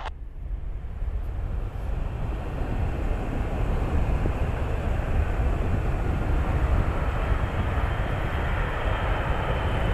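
Aircraft engine noise: a steady rumble that grows gradually louder and brighter.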